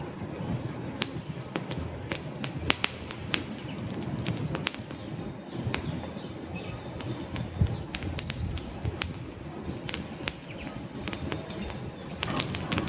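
Wood campfire burning: frequent, irregular sharp crackles and pops from the logs over a steady low rustle of the flames.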